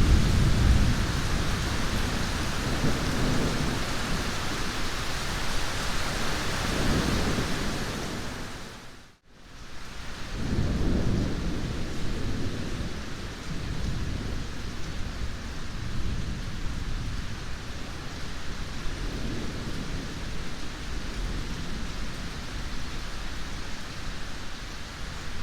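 Steady heavy rain with low rolling thunder rumbling in and out several times. About nine seconds in the whole sound fades down to silence for a moment and fades back up.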